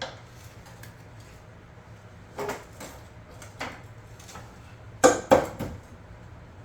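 Short metallic clinks and clanks of tools and steel parts on a mower deck's mounting clips and pins: a few scattered light knocks, then two loud sharp clanks in quick succession about five seconds in.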